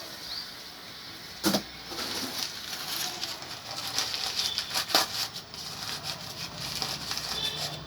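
Carbide gun's chamber hissing and crackling as calcium carbide reacts with water to give off acetylene, with two sharp clicks about a second and a half and five seconds in.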